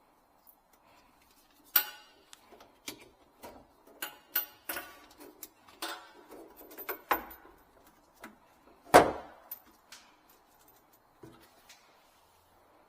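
Irregular clicks and knocks of parts and tools being handled while fitting a kitchen faucet, with one louder knock about nine seconds in.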